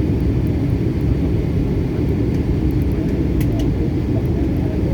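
Steady low rumble of an airliner's engines and airflow, heard from inside the cabin.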